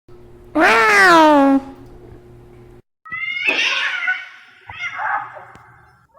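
Domestic cat meowing: one long, loud meow falling in pitch, then after a brief break two more higher, shorter meows.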